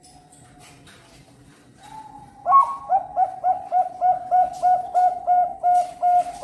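Zebra dove (Thai-bred perkutut bangkok contest line) singing: a soft, faint coo, then from about two and a half seconds in a fast, even run of short cooing notes, about four a second, running into a longer drawn-out note at the end.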